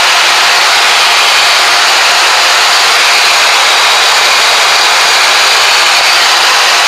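Steady rushing noise inside the cockpit of a Cessna Citation Excel business jet in its climb: airflow and turbofan engine noise, an even hiss that holds the same level throughout.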